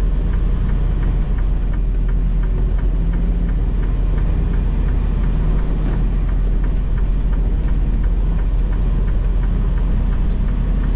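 Semi truck's diesel engine pulling away from a stop, heard from inside the cab as a steady low rumble, with a light ticking a few times a second.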